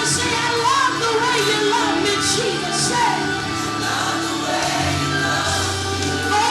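Live gospel music: a band holds sustained chords under a singer's sliding vocal runs, with voices singing along.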